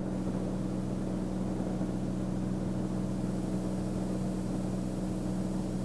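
Beechcraft Bonanza's piston engine and propeller droning steadily in the cockpit during the climb-out: an even, unchanging low hum.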